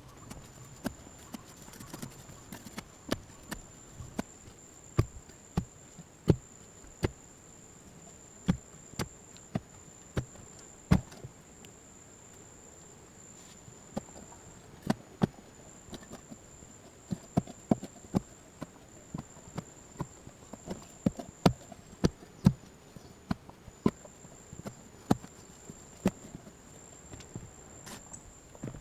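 Irregular sharp knocks and clicks, sometimes several in quick succession, easing off for a couple of seconds about halfway through. A faint steady high whine runs beneath them.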